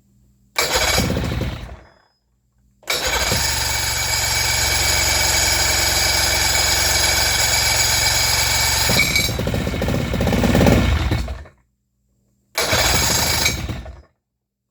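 Pontoon boat's outboard motor starting and running in three spells, a short one, then about eight seconds of steady running, then another short one, each dying away. The owner puts the poor running down to varnish in the carburetor.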